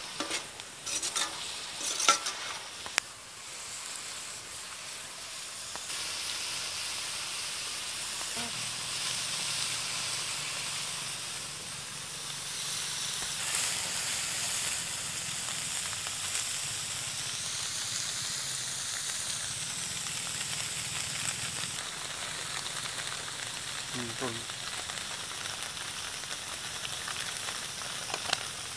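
Goat blood and meat frying in a large iron wok, a steady sizzle that grows louder about six seconds in. A perforated metal ladle stirs and scrapes the pan, with a few clanks in the first few seconds.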